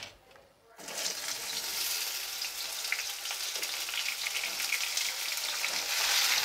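Eggplant (brinjal) pieces frying in hot oil in a kadhai: after a brief quiet moment, a steady sizzle starts suddenly about a second in, with many small crackles and pops.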